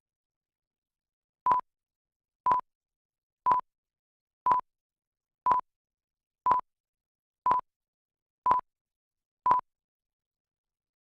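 Nine short electronic beeps, all at one pitch, evenly spaced one a second, with dead silence between them.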